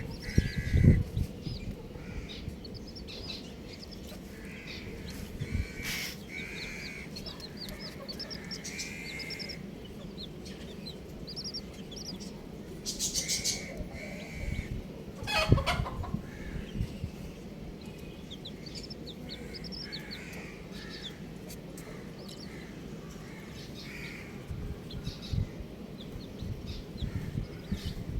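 Baby chicks peeping in many short, high chirps, with lower clucking calls now and then and one louder call that falls in pitch about halfway through. A few low thumps come in near the start and the middle.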